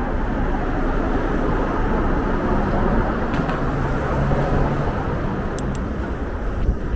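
Steady wash of city street traffic, with a low engine hum from a passing vehicle for a second or so in the middle.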